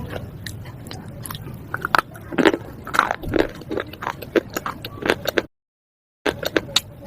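Close-up crunching of slate pieces being bitten and chewed: a rapid run of sharp, crisp cracks and grinding crunches, loudest around the middle. Near the end the sound cuts to dead silence for under a second, then the crunching resumes.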